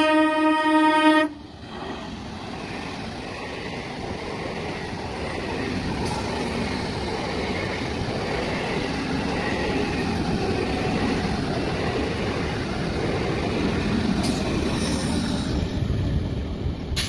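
Indian express train's horn sounding one steady blast that cuts off just over a second in. It is followed by the continuous rumble of the train running, growing gradually louder.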